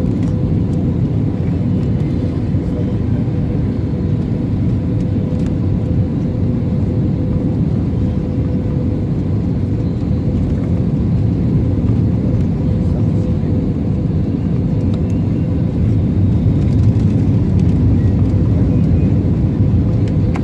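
Steady cabin noise inside an Airbus A321-231 airliner, a dense low rumble from its IAE V2500 turbofans and airflow with a steady hum running through it.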